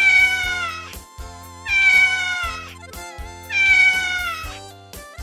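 A cat meowing three times, each meow about a second long and falling in pitch, over light background music.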